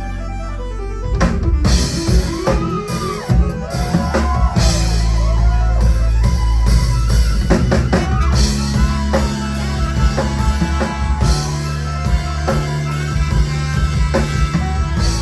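Live rock band playing an instrumental stretch: a drum kit with kick and snare, bass notes and a lead line that slides up and down in pitch.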